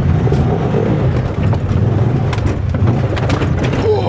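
Side-by-side UTV engine running under throttle while crawling through the creek, with a rough clattering noise and scattered knocks over it.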